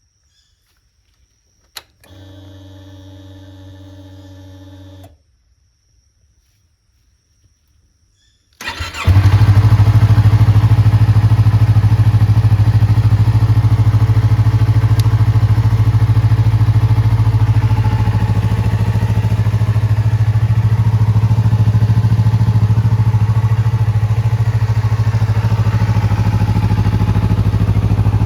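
Yamaha YZF-R25 parallel-twin with a Y's Gear PRUNUS slip-on muffler being started. A click, then a steady electrical hum for about three seconds. About eight and a half seconds in, a brief crank and the engine catches and settles into a steady idle.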